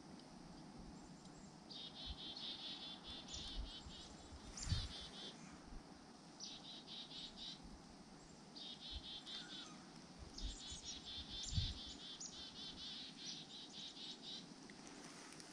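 Small birds at a winter feeder giving a series of short, fast trilled calls, a burst every second or two. Two short low thumps come about five seconds in and again near twelve seconds.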